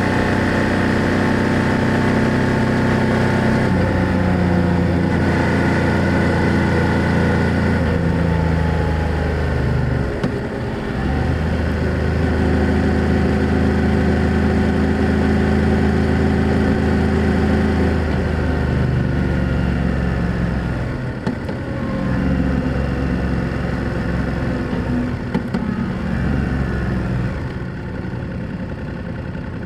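BMW F800GS parallel-twin motorcycle engine and exhaust running under way, heard from the bike. The engine note holds steady, dips briefly about ten seconds in as if for a gear change, and falls away around twenty seconds in as the throttle is rolled off, then picks up again. It is a little quieter near the end.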